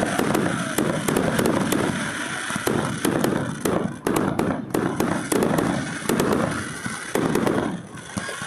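Fireworks going off in quick succession: many sharp cracks and crackles over repeated bangs.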